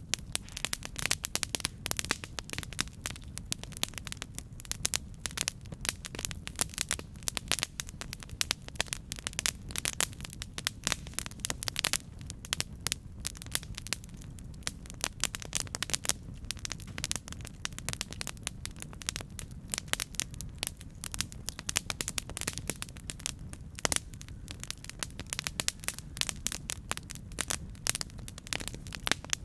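Campfire crackling, with dense irregular sharp pops and snaps over a steady low rumble.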